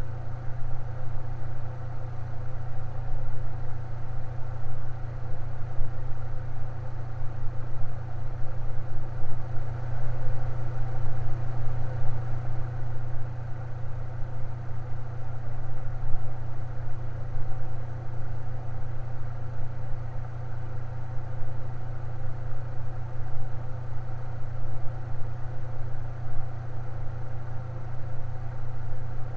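Electric fan running steadily: a low, even motor hum with a constant airy hiss above it.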